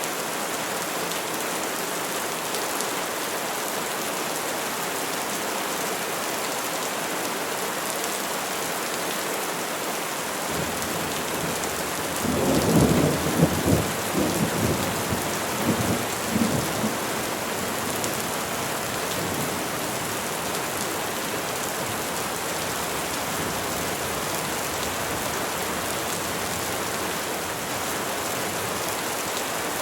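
Steady rain falling on trees, an even hiss throughout. About twelve seconds in, a roll of thunder rumbles for around five seconds, with a few sharper cracks within it.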